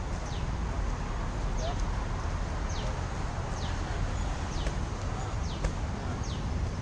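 A bird repeating a short, high, falling call about once a second, over a steady low rumble.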